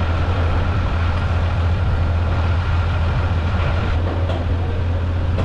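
Large engine running steadily, a low, even hum with no change in pace.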